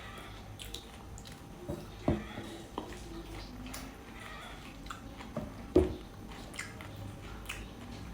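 Close-up mouth sounds of someone biting and chewing juicy pineapple: scattered wet clicks and squelches, with the two loudest bites about two seconds in and near the six-second mark.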